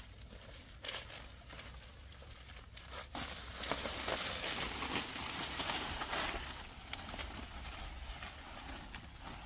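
Dry vegetation rustling and crackling as it is handled or pushed through, with scattered small snaps. It swells loudest in the middle few seconds, then eases off.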